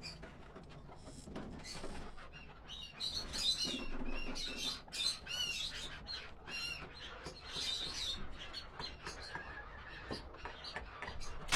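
Chukar partridge calling: a run of short, rapid repeated calls, loudest in the middle and fading off near the end.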